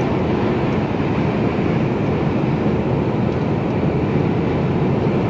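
Steady engine drone and road noise inside the cab of a Mercedes-Benz Actros lorry under way.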